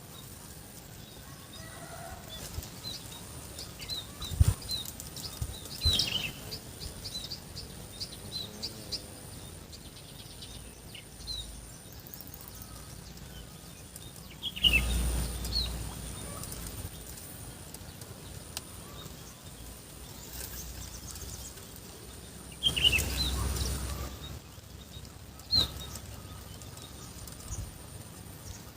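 Small birds chirping in short high notes over a faint steady high tone, with a few sharp clicks and two louder rushing bursts, about halfway through and near the end.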